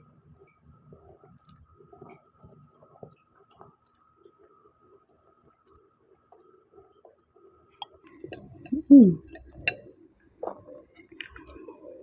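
A person chewing noodles close to the microphone: soft wet chewing and small mouth clicks, busier over the last few seconds, with a louder short sound dropping in pitch about nine seconds in.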